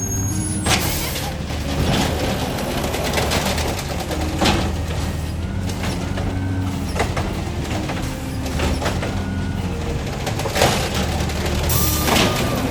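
Garbage truck engine running steadily while it collects bins, with several sharp clanks from the bins and truck. There is a hiss near the end.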